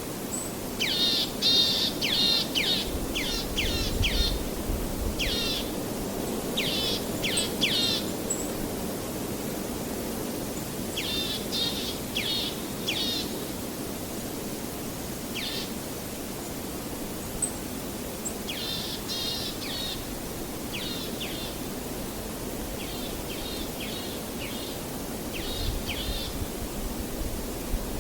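A bird calling in bursts of several short, quick notes, repeated on and off, over a steady low rushing background noise.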